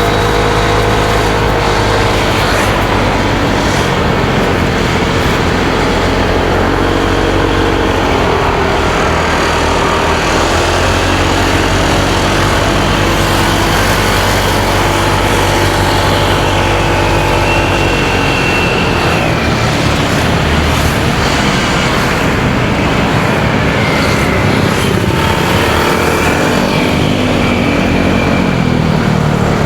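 Motorcycle engine running under way, its pitch shifting as it speeds up and slows, with a dip and rise near the end, over road and traffic noise.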